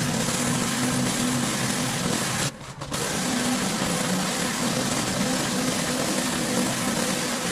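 Pressure washer running, its engine humming under the steady hiss of the high-pressure water spray. The sound drops out for a moment about two and a half seconds in.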